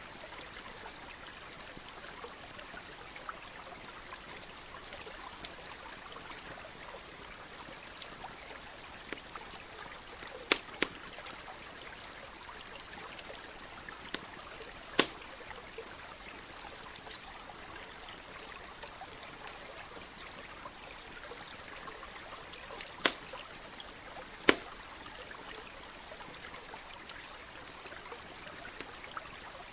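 Wood fire crackling with small, irregular ticks and a handful of sharp, loud pops, over the steady sound of a flowing stream.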